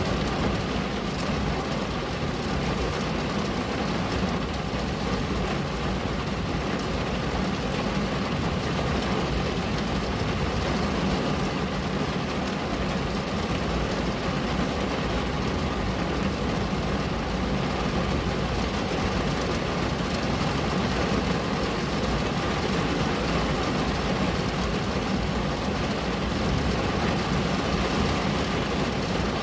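Steady rain on a window: a dense, even hiss with a low rumble underneath, unchanging throughout.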